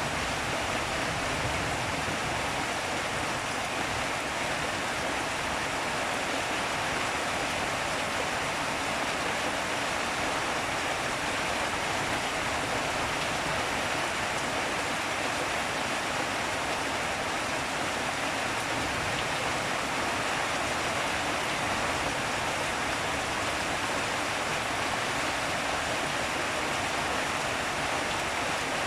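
Steady, even rainfall: a continuous hiss of rain with no thunder and no separate drops or impacts standing out.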